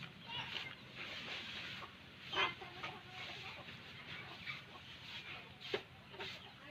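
Birds calling with short, harsh squawks over steady background noise; the loudest comes about two and a half seconds in, and a sharp one near the end.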